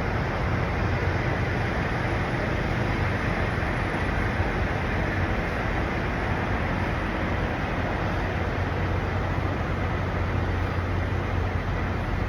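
Steady drone of idling diesel trucks with a constant low hum and road traffic noise, even and unbroken throughout.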